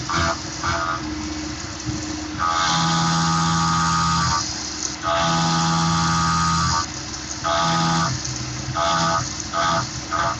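A Tormach PCNC 1100 CNC mill's end mill cutting aluminium on an adaptive clearing pass: stretches of steady, pitched cutting noise, up to about two seconds each, broken by quieter gaps as the tool moves between cuts. The stretches grow shorter and come closer together near the end.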